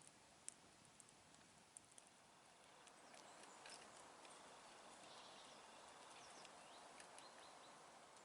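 Faint campfire crackling: scattered sharp pops and ticks, with a soft hiss of burning that rises about three seconds in.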